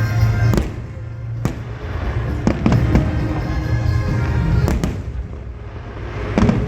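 Fireworks bursting: a string of sharp bangs about every second or two, some in quick pairs, with music playing in the background.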